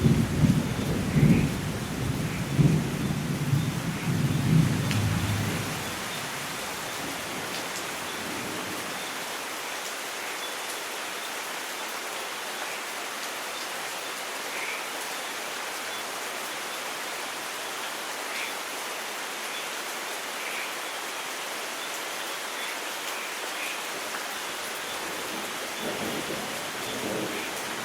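Steady rain falling, with thunder rumbling for the first five or six seconds, then fading out. A faint roll of distant thunder returns near the end.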